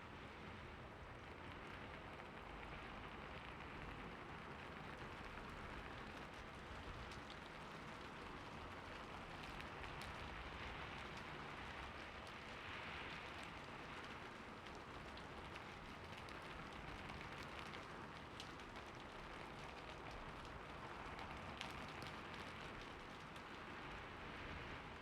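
Steady rain falling, an even patter of drops on a surface with scattered individual drop ticks.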